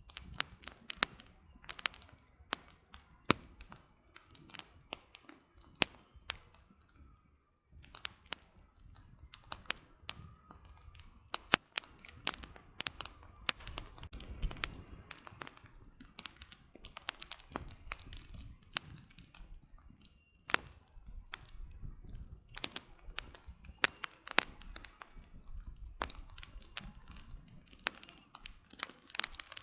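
Wood campfire crackling: logs popping in irregular sharp snaps, sometimes several in quick succession, over a faint low rumble of the fire.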